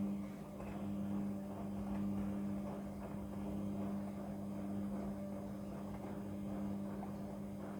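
Midea front-loading washing machine running: a steady mains-type hum over an uneven rushing noise.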